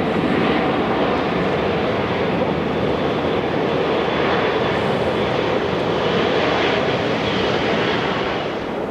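Jet airliner engines running loud and steady as the plane passes close by, easing slightly near the end.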